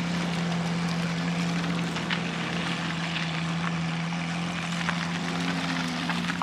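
An engine running at a steady speed, a constant low drone that holds without revving, over outdoor background noise.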